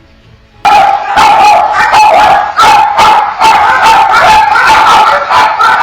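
Two small dogs barking loudly and rapidly, barks overlapping almost without a break, starting about half a second in.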